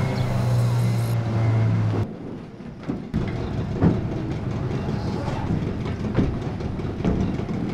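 A boat engine runs with a steady low drone. About two seconds in it cuts off and gives way to a rattling mechanical run with scattered knocks.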